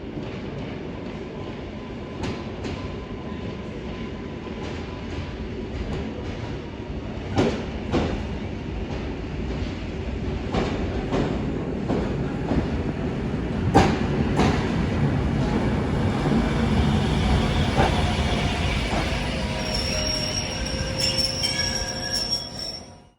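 A train rolling along the track, its wheels clicking in pairs over rail joints and growing louder. In the last few seconds the wheels squeal in high steady tones, then the sound cuts off suddenly.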